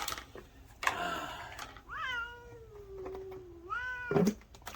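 Hungry cats meowing while waiting to be fed: a long drawn-out meow starting about two seconds in, then a second, shorter rising meow near the end.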